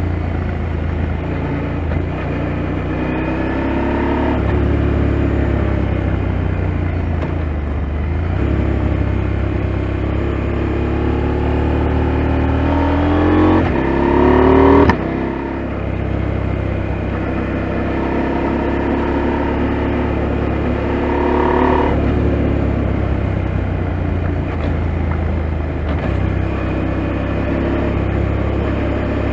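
KTM 890 Adventure's parallel-twin engine under way, its pitch rising and falling as the rider works the throttle. About 13 seconds in it revs up steeply, then drops off suddenly near 15 seconds, as at a gear change or a closed throttle.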